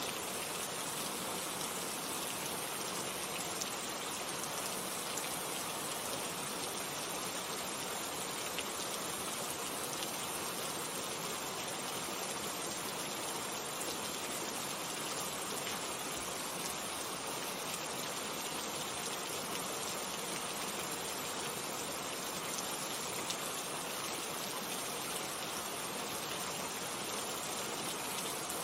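Steady rainfall, an even hiss of falling drops with a few single drop ticks now and then.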